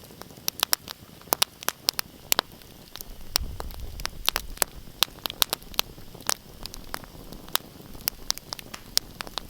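Wood fire crackling in a fireplace, with irregular sharp pops and snaps over a soft hiss. A low rumble joins in a few seconds in.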